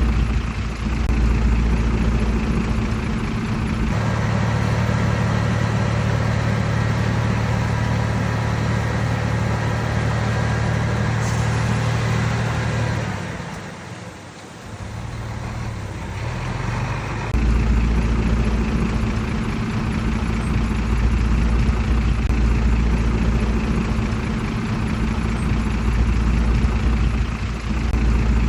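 Heavy diesel engine of earth-moving machinery running steadily. The engine note changes abruptly about four seconds in, falls away briefly around the middle, then comes back to the first steady sound.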